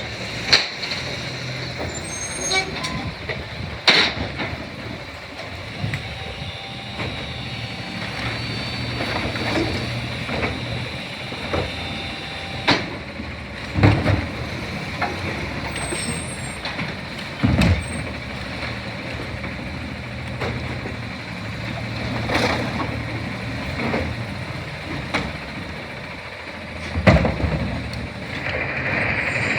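CNG Autocar Xpeditor garbage truck with a New Way Sidewinder side loader, its engine running steadily, with about seven sharp clanks every few seconds. An air hiss starts near the end.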